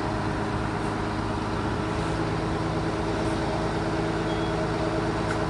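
Sawmill machinery engine running steadily at constant speed, a continuous drone with a few steady tones that does not rise or fall.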